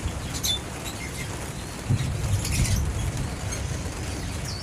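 A few short, high bird chirps, the last a quick falling note, over a steady low rumble that swells for a second or so midway.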